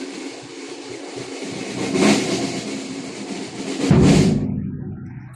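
Procession band percussion: heavy bass drum and cymbal strikes about two seconds apart, the slow beat of a funeral march, over a wash of cymbal and held low notes.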